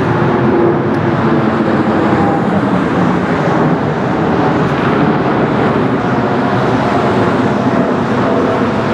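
Jet engines of a Boeing 777-300ER, its twin GE90 turbofans giving a loud, steady jet noise with faint whining tones that shift slightly in pitch.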